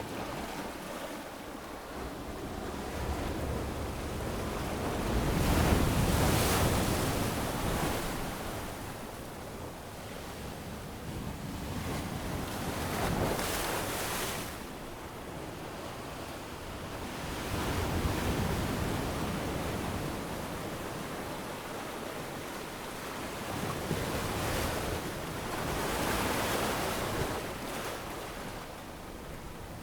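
Ocean waves breaking and washing up on a sandy beach, surging every few seconds, with the biggest break about six seconds in, over a steady wash of surf.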